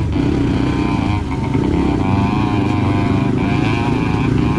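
Enduro dirt bike engine running, its revs wavering up and down, with a brief easing off the throttle a little over a second in.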